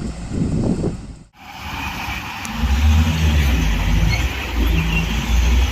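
Wind noise on the microphone over a low rumble. After a sudden cut about a second in, a heavy diesel engine runs steadily with a deep, even engine note.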